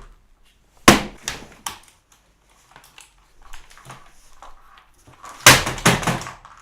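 A computer keyboard being smashed in anger: three hard hits about a second in, some lighter clattering, then another cluster of heavy blows near the end.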